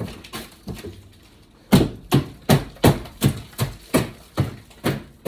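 Repeated hammer blows on wood, about ten strikes in a steady rhythm of roughly two and a half a second, starting just under two seconds in after a few lighter knocks.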